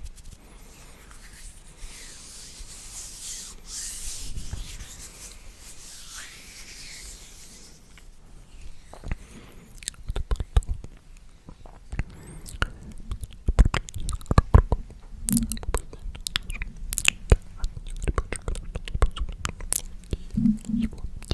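Very close, unintelligible breathy whispering into the microphone, followed about nine seconds in by a run of close-miked wet mouth clicks and smacks.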